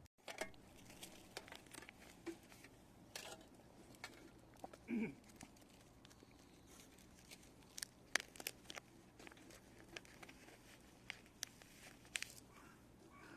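Faint scattered clicks and rustles, with a short voice-like sound about five seconds in.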